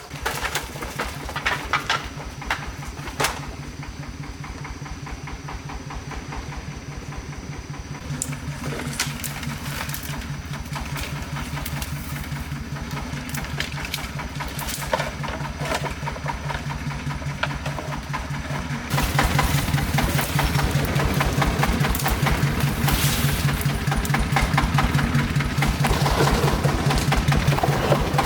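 A small engine starts and runs with a steady, rapid, even beat. It gets louder about two-thirds of the way through, as if it is revved up or comes closer.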